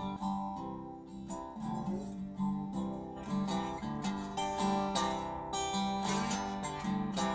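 Acoustic guitar playing the instrumental intro of a blues song, a run of picked and strummed notes changing every fraction of a second.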